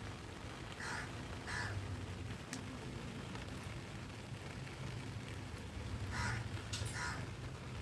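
A crow cawing: two caws about a second in, and two more near the end, over a steady low rumble.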